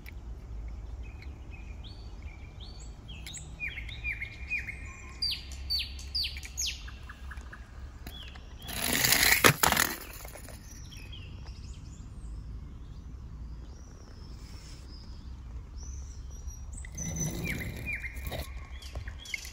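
Small birds chirping: runs of short, high, downward-sweeping chirps, once early and again near the end. About halfway through, a loud scraping rush ending in a sharp click.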